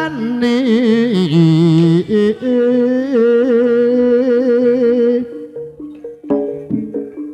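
A singer holds long notes with vibrato in a slow Javanese-language song over instrumental accompaniment. About five seconds in the voice stops, and drum strokes and struck percussion carry the music on.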